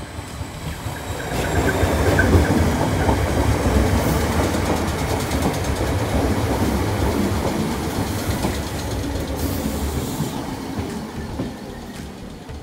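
Merseyrail Class 508 electric multiple unit passing close by, its wheels running over the rails with a rough rumble. The sound swells about a second in, stays loud and eases off near the end.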